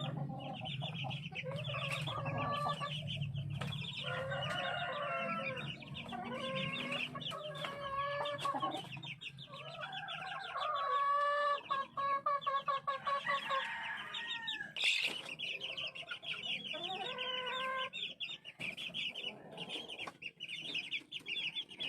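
A flock of chickens clucking, many birds calling over one another around the feeder. A low steady hum underlies the first half, and there is one sharp louder call or knock about two-thirds of the way through.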